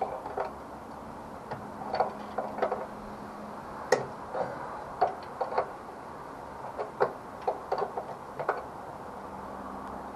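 Irregular light clicks and knocks of hand tools and small metal parts being handled, about a dozen spread unevenly through, the sharpest about four seconds in.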